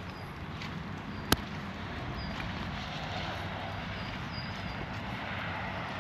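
Steady rain and rushing water in a forest, with short high bird chirps every now and then. A single sharp click about a second in is the loudest sound.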